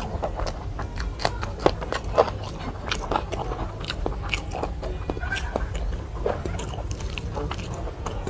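A person chewing and biting food close to the microphone: irregular wet mouth clicks with a few crunchy bites.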